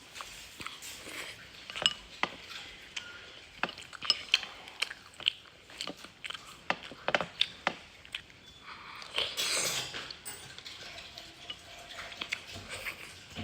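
Utensils clinking and scraping against a bowl of spicy noodles while eating, with chewing. Irregular sharp clinks run throughout, with a short noisy stretch about nine seconds in.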